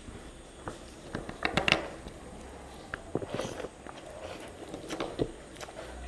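Wet chewing and lip smacks of someone eating rice by hand, an uneven run of clicks and smacks, loudest about a second and a half in.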